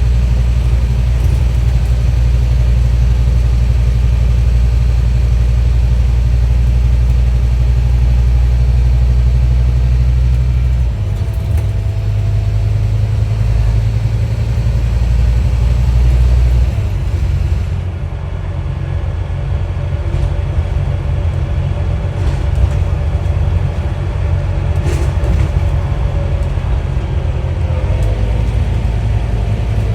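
Scania N230UD OmniDekka double-decker bus's diesel engine running under way, a deep steady drone whose note drops about 11 seconds in and again near 17 seconds. A faint whine rises and falls over the second half.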